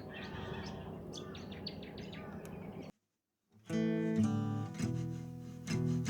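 Birds chirping repeatedly over steady outdoor background noise, cut off abruptly about halfway through; after a brief silence, music with a strummed guitar begins.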